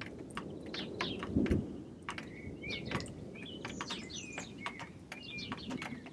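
Small birds chirping, many short rapid calls with a few brief whistled notes, over a low background rumble with a single low thud about a second and a half in.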